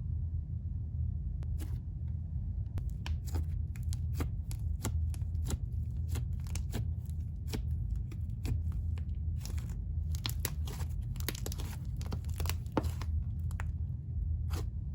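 Slime being squished and stretched by hand, giving a run of short sticky clicks and pops that come thickest about ten seconds in, over a steady low hum.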